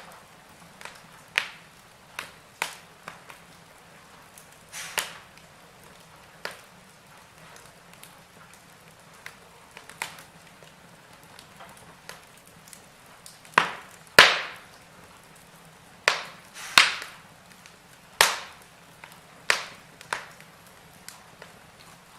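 Wood fire in a fireplace crackling: irregular sharp pops and snaps every second or two over a faint steady hiss, the loudest a little past the middle.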